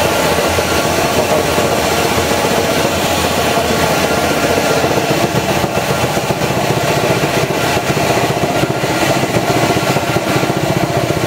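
PET plastic-flake washing machine running, a loud, steady machine hum that holds several steady tones without a break.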